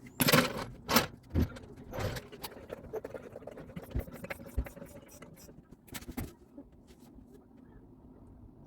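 Scattered metallic clinks and knocks from tools and parts being handled, most of them in the first two seconds and a pair about six seconds in, over a faint steady hum.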